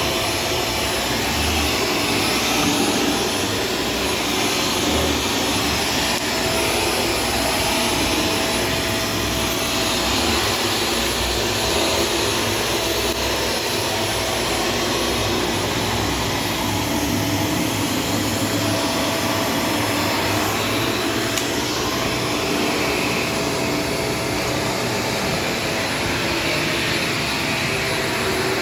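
Shark Stratos vacuum cleaner running steadily, with an uneven low rumble under its even rushing noise.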